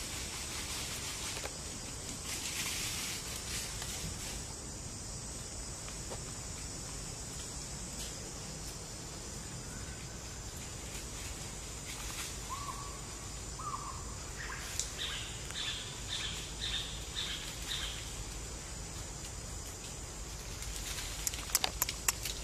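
Outdoor ambience with a steady high hiss. A bird calls briefly about halfway, then gives a run of about seven short, high notes at roughly two a second. A few sharp clicks come near the end.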